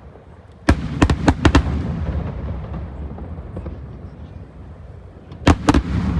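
Aerial fireworks shells bursting: a quick run of four sharp bangs about a second in, a low rumble hanging on after them, then another run of three bangs near the end.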